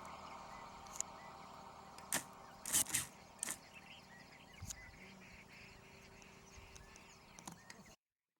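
A series of sharp clicks and snaps over a steady low background hum. The sound cuts off abruptly about eight seconds in.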